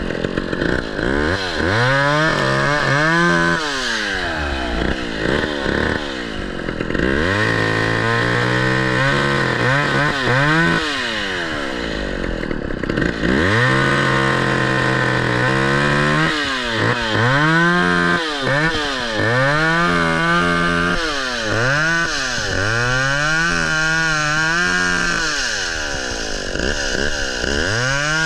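Gas chainsaw engine revved repeatedly, the throttle squeezed and released again and again as it cuts through a downed tree: a few longer held revs, then quicker revs of about a second and a half each near the end.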